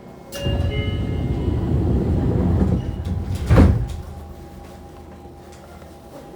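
Fukuoka City Subway 2000-series train's sliding doors closing: a few chime tones and the rush of the door mechanism, ending in a loud thud as the doors shut about three and a half seconds in.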